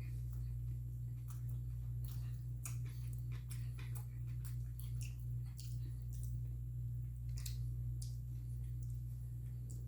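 Person chewing food close to the microphone: soft, irregular wet clicks and crackles, over a steady low hum.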